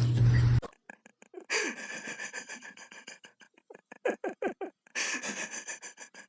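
An animal making quick, short breathy sounds in rapid runs, each one dropping slightly in pitch. Loud music from the previous clip cuts off abruptly just under a second in.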